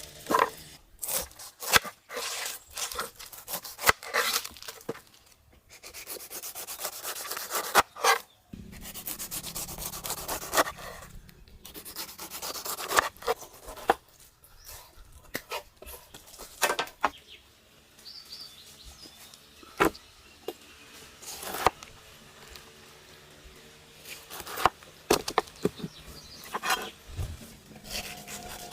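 Knife cutting and peeling fruit by hand. Stretches of scraping and rubbing are broken by sharp knocks of the blade, scattered irregularly throughout.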